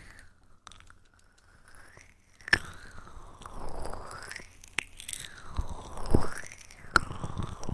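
Close-miked ASMR trigger sounds: soft crackling textures and sharp clicks, with a near-silent pause about a second in before a sharp click restarts them.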